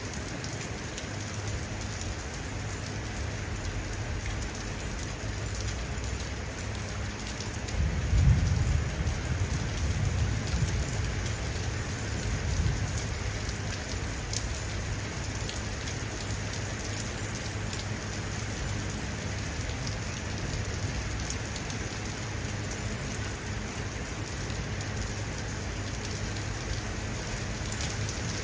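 Steady rain falling, with a low rumble of distant thunder swelling about eight seconds in and dying away over a few seconds.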